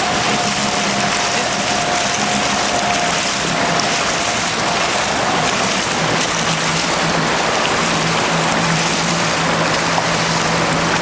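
Jet ski running across open water: a steady rush of spray and wind with a low, even engine hum underneath. A faint higher tone fades out about halfway through.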